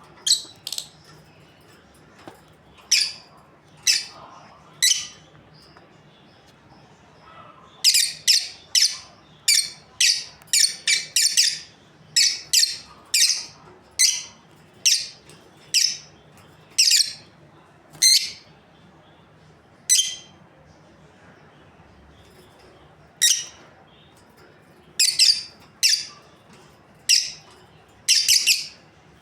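Lovebirds chirping: short, sharp, high calls in irregular bouts, with a quick run of them about eight to thirteen seconds in and a pause near twenty seconds.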